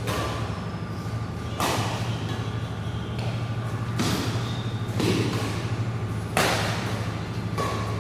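Badminton rackets striking a shuttlecock in a rally: about six sharp hits, one to two and a half seconds apart, over a steady low hum.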